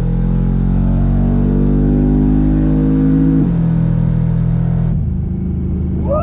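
Twin-turbo GMC truck engine pulling hard, its pitch climbing steadily, then falling suddenly about three and a half seconds in, as at an upshift. It drops again near five seconds as the throttle eases.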